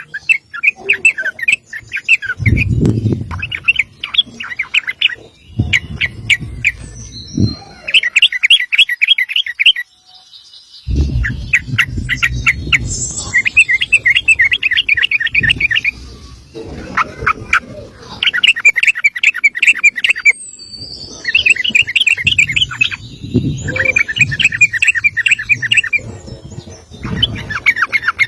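Yellow-vented bulbul singing its long, rapid song: one fast trilled phrase after another, each a second or two long, with short pauses between.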